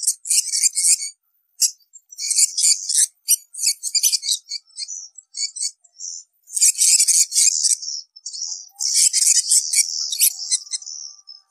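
Swiftlets twittering: clusters of rapid, high chirps with short gaps between them, the lure call played to draw swiftlets into a nesting house.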